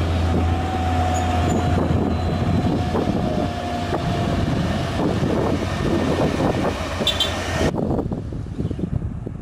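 Heavy truck engine working hard under load, a loud rumble with a steady low drone and a faint whine above it. Near the end the sound changes abruptly, turning quieter and duller.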